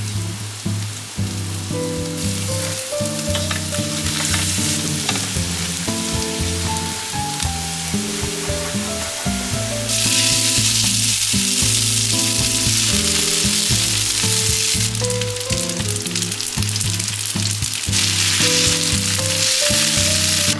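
Food sizzling and frying in a hot pan. The sizzle steps up sharply about halfway in and changes level abruptly a few times, over background music with a plain melody.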